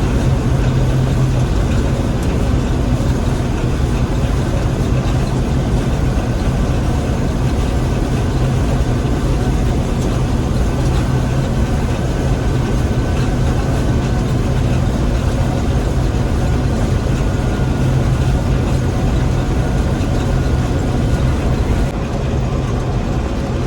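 Gleaner M3 combine running steadily: a constant low engine hum under a broad wash of machinery noise, dropping slightly and sounding a little duller near the end.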